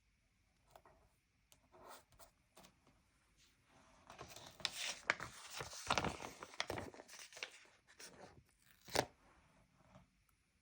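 Paper stickers being peeled off a sticker book sheet and handled: a few light taps, then about four seconds of papery peeling and rustling in the middle, and one sharp tap about nine seconds in.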